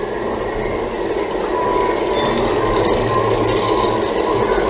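Steady road and tyre noise inside a Toyota Tank's cabin while it is driven along the highway, with no change in pace.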